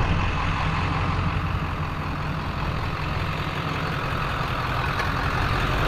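A vehicle engine running steadily at idle, with a steady hiss over it.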